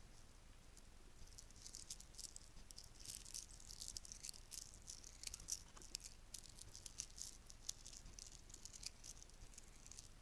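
Bracelets handled close to the microphone, with quiet, fine clicking and clinking. The clicks are sparse at first and become a dense, irregular run from about a second and a half in.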